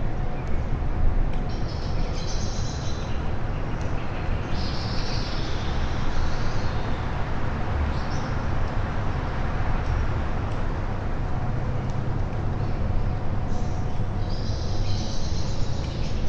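Birds calling in short clusters of high chirps three times, over a steady low rumble.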